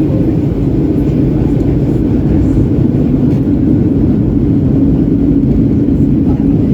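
Steady, loud cabin noise inside a Boeing 737-800 in flight: the airflow rush and engine drone of its CFM56 turbofans, a deep even roar with no breaks.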